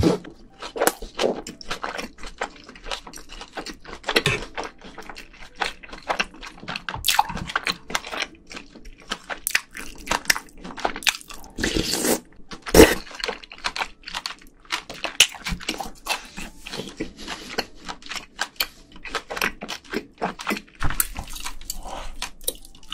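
A person chewing mouthfuls of beef bibimbap with noodles, giving wet, crunchy chewing sounds in quick, irregular clicks. A metal spoon and chopsticks knock against a stainless-steel bowl now and then, with a few louder knocks.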